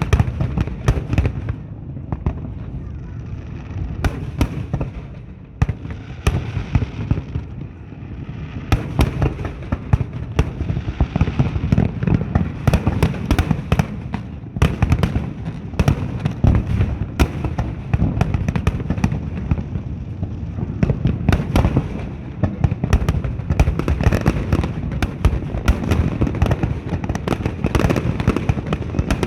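Fireworks display: aerial shells bursting in rapid succession over a continuous low rumble, with many sharp cracks and crackles that grow denser from about eight seconds in.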